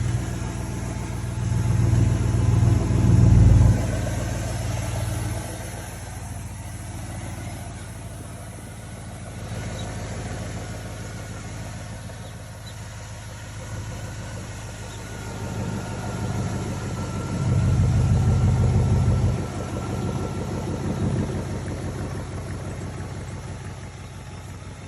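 Car engine running steadily, with two louder surges, one about two to three seconds in and one near eighteen seconds in.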